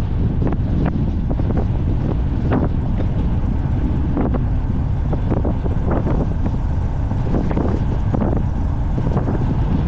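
Heavy wind buffeting the microphone over a steady low rumble, broken by irregular short knocks and rattles.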